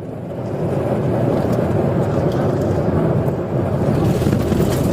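Steady vehicle noise from a patrol car driving at speed: engine, tyre and wind rumble that builds over the first second and then holds.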